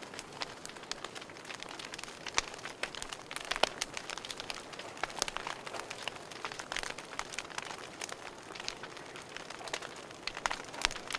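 Wood fire burning in a fireplace, crackling with a steady hiss and frequent sharp, irregular pops and snaps.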